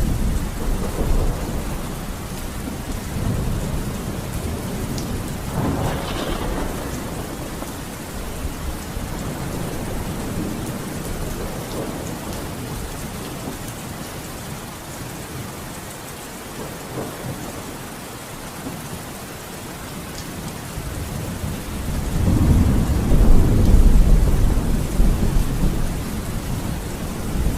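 Steady rain with rolling thunder: a sharper thunderclap about six seconds in, then a long, loud rumble of thunder near the end.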